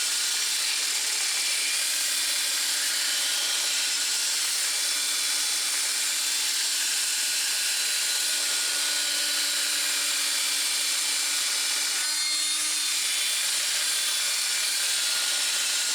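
Power tool spinning a small abrasive cleaning disc at a steady speed, grinding rust and corrosion off a wheel hub bearing.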